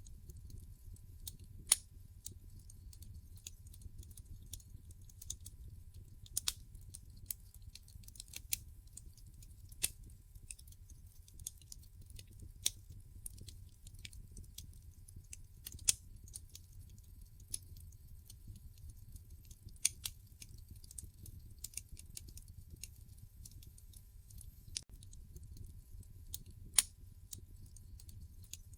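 Wood fire burning in a fireplace, crackling with irregular sharp pops and snaps over a low, steady rumble of flames. A handful of pops stand out much louder than the rest.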